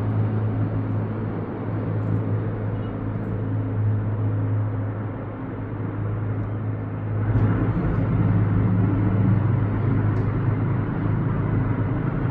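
Steady low engine drone with a constant hum, growing louder about seven seconds in.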